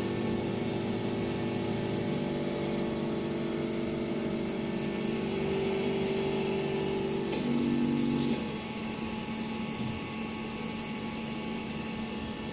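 BGA rework station running with a steady electrical hum. About seven seconds in there is a click and the tone shifts. About a second later the hum settles lower and slightly quieter.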